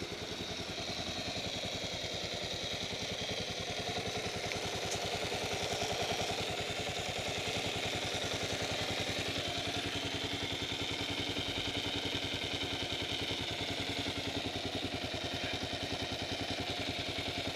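2008 Kawasaki KLR650 single-cylinder engine idling steadily, heard close to the left-side engine case. It has a rattle from the left case that the owner likens to ball bearings, a noise that appeared after an oil change.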